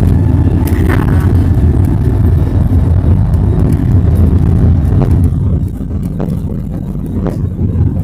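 Airbus A320's engines at full takeoff thrust with a heavy low rumble, heard inside the passenger cabin; the rumble eases noticeably about five and a half seconds in.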